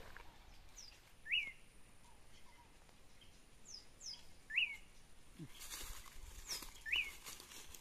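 Wild birds calling: short chirps that sweep up and fall back, repeated about every two to three seconds, with thinner, higher falling notes in between.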